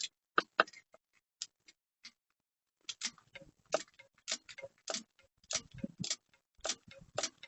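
Hand ratchet clicking as it tightens an intake manifold bolt: a few scattered clicks, then a fairly even run of clicks, about three a second, as the handle is swung back in short strokes.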